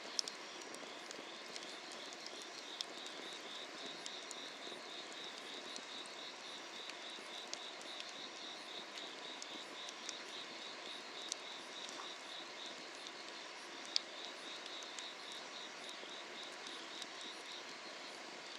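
Grass insects trilling in a steady, fast pulsing chirp over a wood fire burning under an iron cauldron, its low hiss broken by a few sharp crackling pops.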